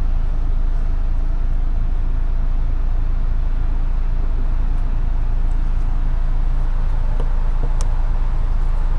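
Steady low rumbling noise, with a faint click about eight seconds in.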